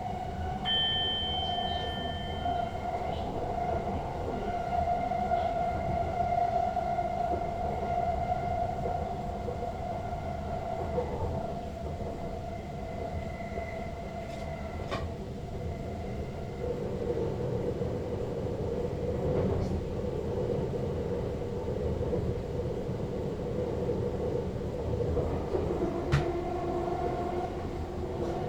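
Sprinter Lighttrain (SLT) electric train heard from the driver's cab while running: a steady rumble of wheels on track with a whine from the traction drive. The whine steps down in pitch about halfway through and again near the end. A brief high tone sounds about a second in.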